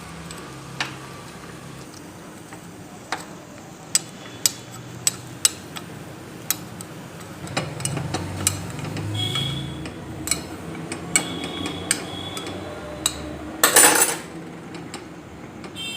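A metal utensil tapping and clicking against an appe pan as the cakes in its cups are turned over one by one: a dozen or so irregular sharp taps, with a louder, longer scrape near the end.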